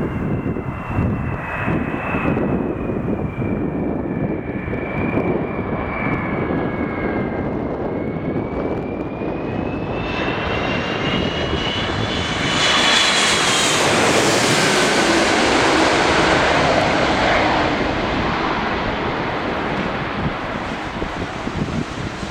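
Landing airliner approaching and passing low overhead: a high engine whine with several tones rises as it nears, then a loud rush of engine noise peaks and fades away. Wind rumbles on the microphone.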